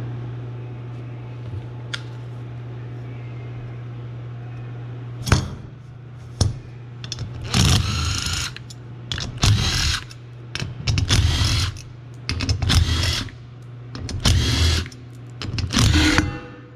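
A handheld power tool run in about six short trigger bursts, each under a second, roughly a second and a half apart, preceded by two sharp clicks, while a golf cart drive clutch is taken apart for servicing.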